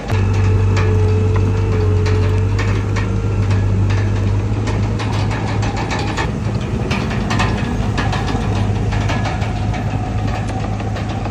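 Heavy diesel earthmoving machine running steadily with a strong low hum, overlaid by irregular metallic clanks and rattles that are busiest in the middle.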